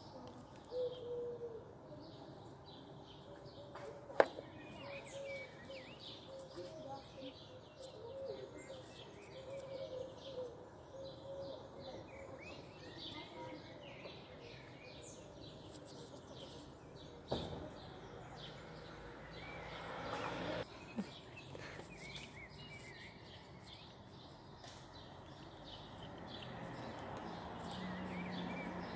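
Birds chirping in the trees outside, with one sharp click about four seconds in and a rush of noise near two-thirds through that cuts off suddenly.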